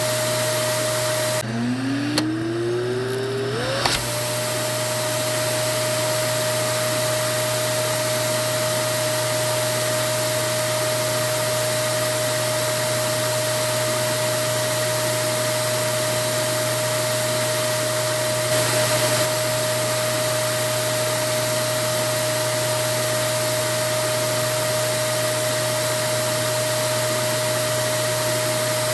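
Vacuum cleaner motor running steadily with a high whine over a constant rushing hiss. About a second and a half in, the motor dips and spins back up over about two seconds, its whine rising back to the running pitch.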